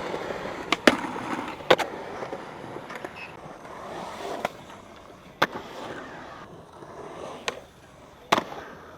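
Skateboard wheels rolling, with a series of sharp clacks of the board striking the ground, the loudest about a second in, just before two seconds, and near the end.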